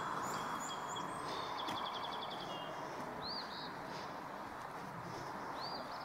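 Birds calling over a steady rush of running water. There are a few short high whistles at the start, a quick trill about two seconds in, and two arched calls later on.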